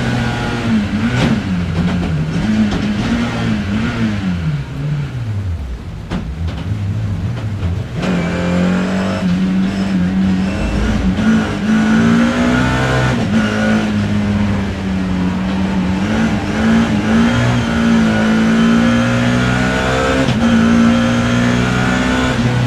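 BMW E30 M3's four-cylinder S14 race engine heard from inside the car, running hard under racing load. Revs rise and fall through the first few seconds, drop away around five seconds in, then climb back and hold high and fairly steady from about eight seconds in.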